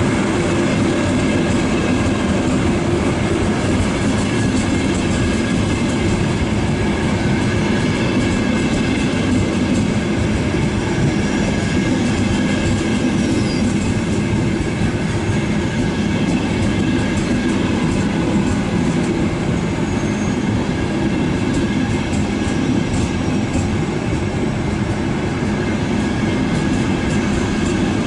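A train running through the station, loud and steady, with wheels clattering over the rail joints.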